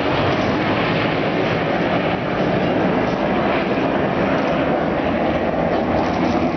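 Steady jet noise from the de Havilland Sea Vixen's twin Rolls-Royce Avon engines in flight.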